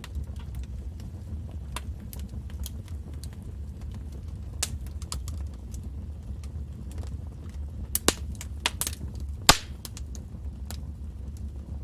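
Wood fire in a fireplace crackling, irregular sharp pops and snaps over a steady low rumble of the flames, with a few louder pops about eight and nine and a half seconds in.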